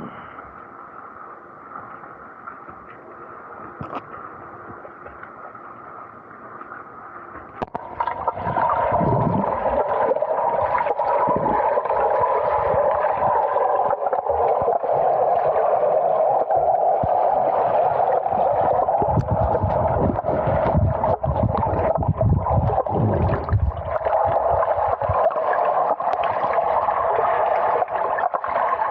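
Water noise on the microphone of an Insta360 Go 2 action camera in the water: after a quieter first few seconds it turns suddenly loud about eight seconds in, into a steady gurgling rush with low thumps.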